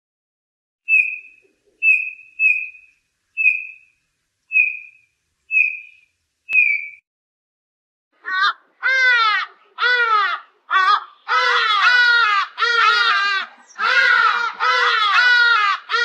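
A bullfinch calling: about seven short, soft piping notes, roughly one a second. From about eight seconds in, an ibis gives a rapid run of rough calls that slide down in pitch.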